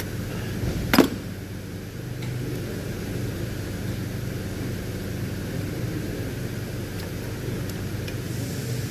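Steady low mechanical hum, with one sharp knock about a second in and a few faint ticks near the end.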